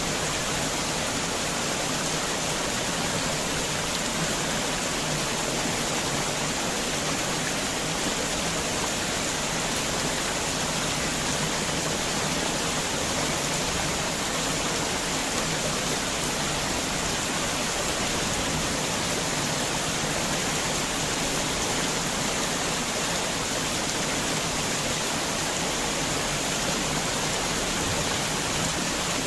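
Heavy rain falling in a steady, even hiss, with no separate drops, knocks or thunder standing out.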